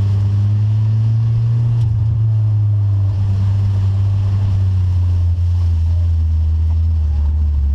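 Rover 45 banger's engine running, heard from inside the stripped-out cabin: a deep, steady drone that slowly drops in pitch, over road and wind noise.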